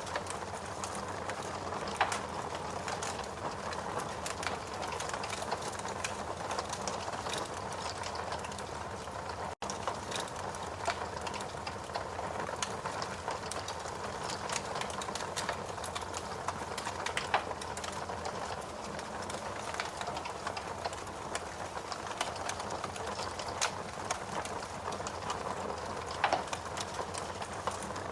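Steady rain blended with a crackling wood fire, with a few sharper pops among the crackles. The sound cuts out for a split second about ten seconds in.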